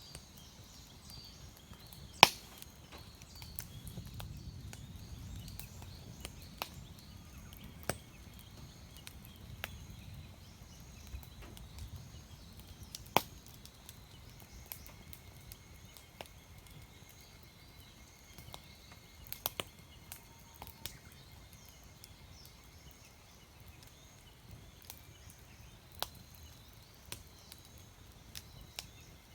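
Firewood burning in a campfire, crackling with irregular sharp pops; the loudest snaps come about two seconds in and near the middle. Small birds chirp faintly in the background.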